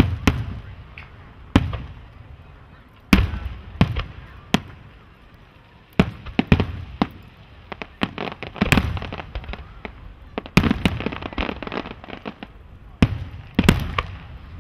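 Aerial fireworks bursting: a run of sharp bangs spaced a second or so apart, several trailing a low rumbling echo. Rapid clusters of smaller pops come about halfway through and again later.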